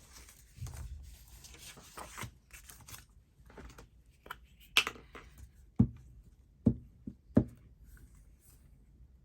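Tabletop craft handling: paper rustling and small clicks, then four sharp taps and knocks about a second apart in the second half, as glue is taken up and paper is worked on the desk.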